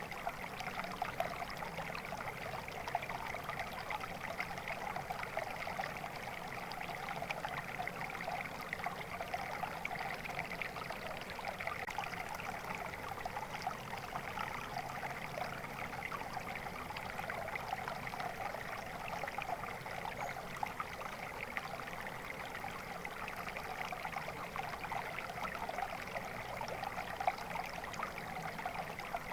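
Shallow water flowing and trickling steadily, a dense burbling splash with no breaks.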